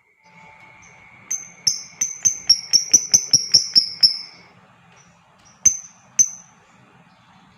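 Lovebird calling: a fast run of about a dozen sharp, high chirps, roughly five a second and falling slightly in pitch, then two more single chirps. A faint steady high whistle-like tone sits under the first half.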